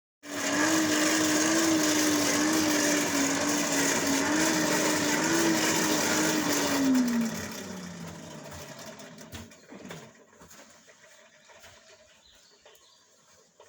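A machine running steadily with a loud hiss and a slightly wavering hum, then stopping about seven seconds in, its pitch falling as it winds down over a second or so.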